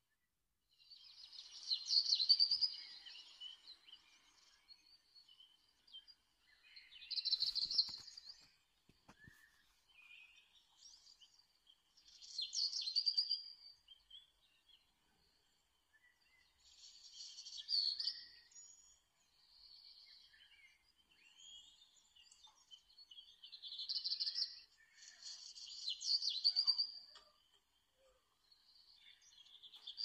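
Birds chirping: short bursts of high twittering song that come back every few seconds. A few faint clicks around eight seconds in.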